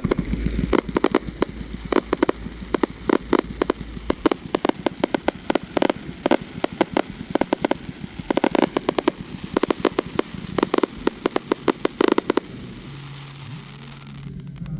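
Fireworks going off: a dense, irregular run of sharp cracks and bangs, several a second, that stops suddenly near the end, leaving a low hum.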